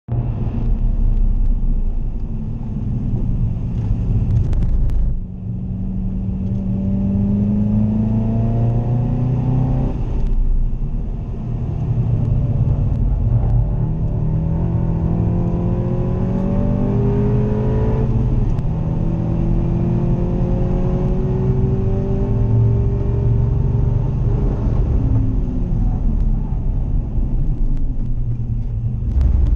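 Seat Leon ST 280 Cupra's turbocharged 2.0-litre four-cylinder engine at full throttle on a track lap, heard inside the cabin with tyre and road noise. The engine pitch climbs in long sweeps as it pulls through the gears of its manual gearbox, with short drops in level about five and ten seconds in.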